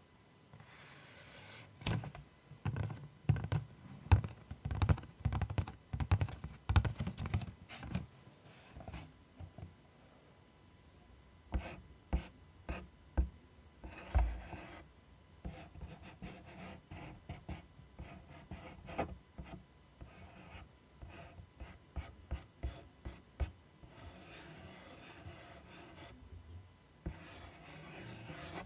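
Close-miked ASMR tapping and scratching on objects: a quick run of taps with soft thuds for several seconds, then scattered taps and clicks with one heavier thud midway, and a stretch of soft scratching near the end.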